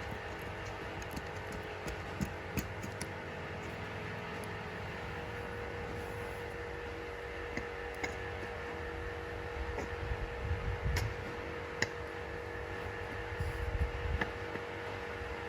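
Steady hum with scattered light clicks of small tool parts being handled, and a few low knocks from handling in the second half.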